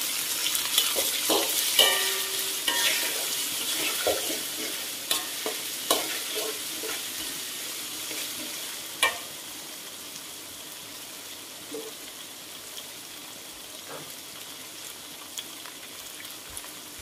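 Chili paste and petai beans sizzling in a steel wok as they are stirred, with a metal utensil clicking and scraping against the pan through the first half, one sharp knock the loudest. After that the stirring stops and the frying settles to a quieter steady hiss.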